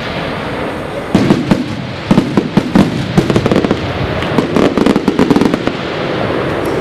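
Fireworks display: a rapid barrage of many sharp bangs and crackles starting about a second in, thinning out shortly before the end.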